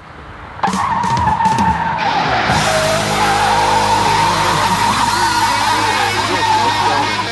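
Rear tyres squealing in a burnout, starting suddenly about a second in and holding a steady wavering screech, over a V8 held at high revs. The engine is the 1973 Thunderbird's 460 four-barrel V8.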